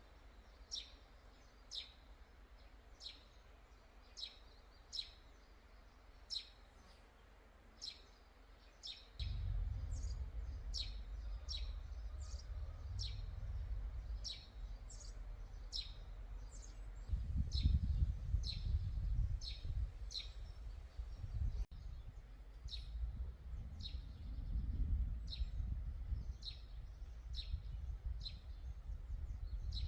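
A songbird repeating one short, high, downward-sweeping chirp about once a second. A low rumble starts about nine seconds in and runs underneath.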